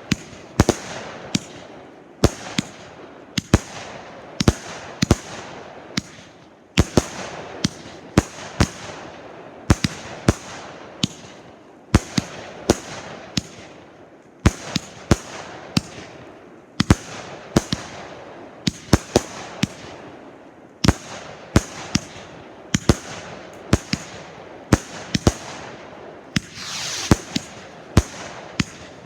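Fireworks display: a long string of sharp bangs, roughly one or two a second and often in quick pairs, with crackling in between and a rising whoosh near the end.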